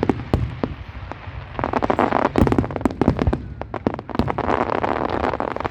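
Fireworks display: dense volleys of bangs and crackling, with a lull about a second in before a heavier barrage builds again.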